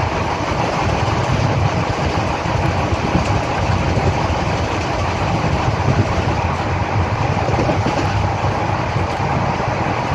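Passenger train coach running steadily at speed, heard from its open doorway: a continuous rumble of wheels on the rails with rushing air.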